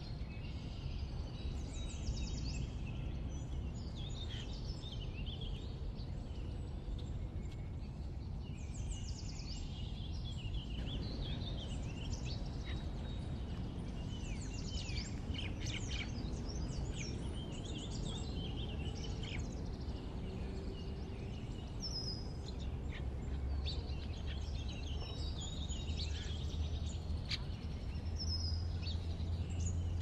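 Many small birds chirping and twittering, with short, high calls overlapping throughout, over a steady low rumble that grows a little stronger in the second half.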